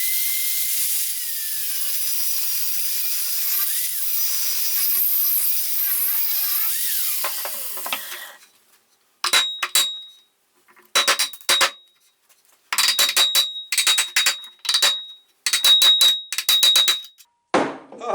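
Angle grinder cutting into the remnant of a fan pulley on the compressor shaft: a loud, dense hiss with the motor's pitch wavering under load. After about eight seconds it stops and winds down. It is followed by clusters of sharp metal knocks with a ringing tone as the pulley is worked loose.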